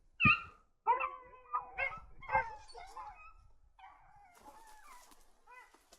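Beagles baying on a rabbit's trail: a string of short, loud bawls and yelps in the first half, then fainter calls later on.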